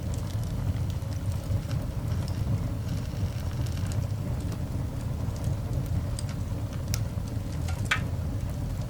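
Coal fire burning in a cast iron dog grate: a steady low rumble with scattered small crackles and pops, and one sharper pop near the end.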